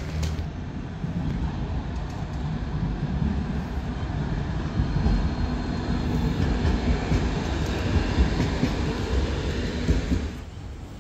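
A train rolling along the rails, a steady rumble with wheel clatter, that falls away sharply about ten seconds in.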